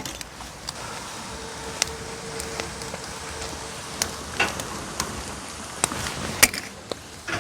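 Scallops sizzling in their shells on a grill over an oak-wood fire: a steady hiss with scattered sharp crackles and pops, two louder pops in the second half.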